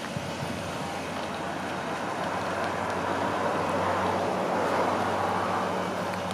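Ford 302 V8 engine running as the truck drives slowly past. It gets louder as the truck comes closest, about four to five seconds in, then eases off.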